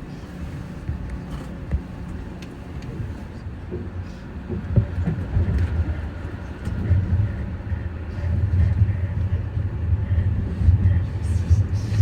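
Running noise of a Keio Inokashira Line electric train: a steady low rumble of wheels on rails with a few sharp clicks. It grows clearly louder from about halfway through.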